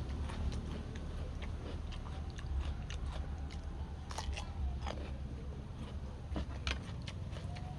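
Close-miked eating: a person chewing and biting food, with irregular small wet clicks and crunches.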